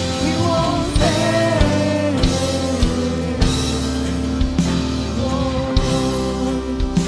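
Live church worship band playing a passage between sung lines, with drums keeping a steady beat under sustained guitar and keyboard chords and a bass line.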